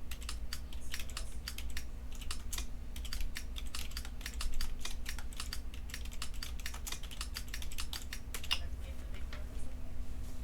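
Typing on a computer keyboard: quick, irregular keystrokes that stop near the end, over a faint steady electrical hum.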